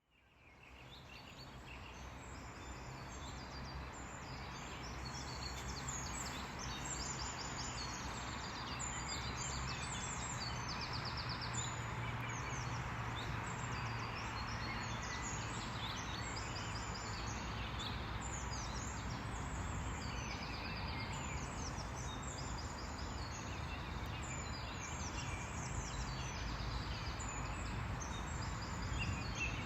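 Birds chirping and singing over a steady background rumble and hiss, fading in over the first few seconds.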